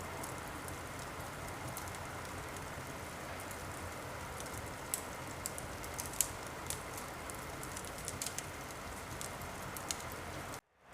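Wood fire crackling: a steady hiss with scattered sharp pops and snaps. The sound cuts out completely for a moment near the end.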